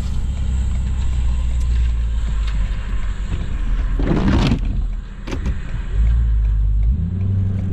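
Ford F-350's 6.7 Powerstroke V8 turbodiesel running steadily under load, its note dropping and then rising again in the last few seconds, with a short noisy burst about four seconds in.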